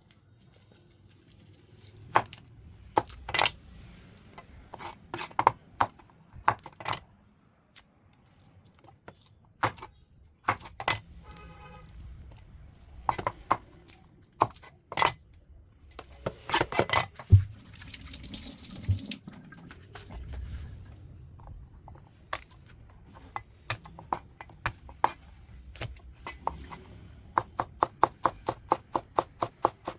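Kitchen prep at a sink: water from the tap and irregular clatter of bowls and utensils. Near the end a fast, even run of knife strokes on a cutting board begins, about four a second.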